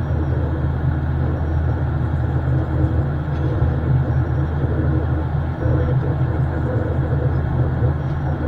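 Steady jet airliner cabin noise heard from inside the cabin: a constant low engine drone with the rush of airflow over it.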